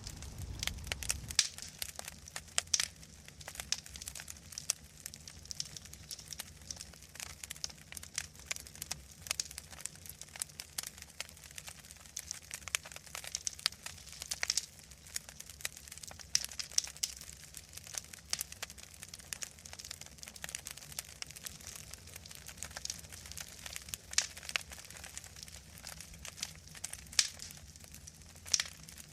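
Wood fire crackling in a fireplace: an irregular, steady run of sharp pops and snaps over a faint low hum.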